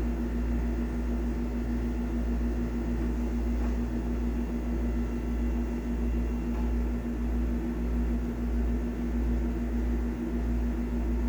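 A steady low hum with a constant mid-pitched drone over it, throbbing slightly, with no clear starts or stops.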